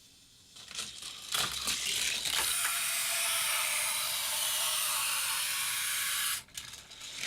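Hot Wheels die-cast car running on plastic track: a few clacks and knocks as it sets off, then a steady rushing noise of its wheels on the track for about four seconds that cuts off suddenly, followed by more clatter.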